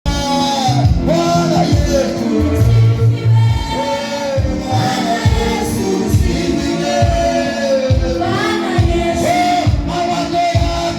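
Church worship music: singing over a band with a steady beat.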